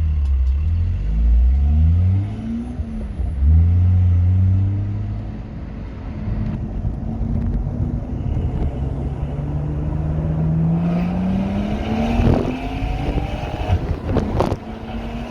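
BMW M140i's B58 turbocharged straight-six with a Quicksilver aftermarket exhaust, heard from inside the car, accelerating hard through several quick upshifts. It then pulls slowly up through the revs in one gear, with a couple of sharp cracks near the end.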